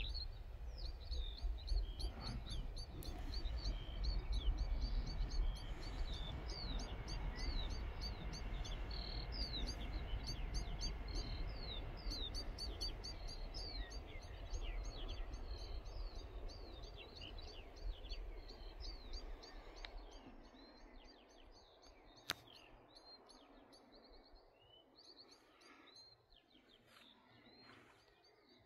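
Songbirds chirping and singing all through, many short quick notes, over a low rumbling noise that fades after about twenty seconds; a single sharp click a little later.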